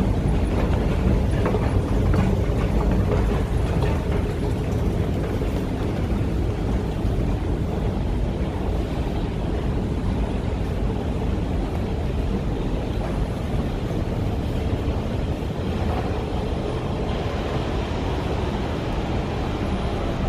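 Wind rumbling on the microphone over steady city street noise with traffic.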